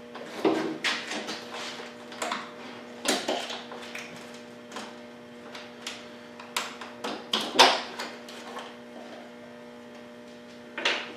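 Irregular knocks, clicks and short scrapes as a refrigerator's handle is worked loose by hand, over a steady electrical hum.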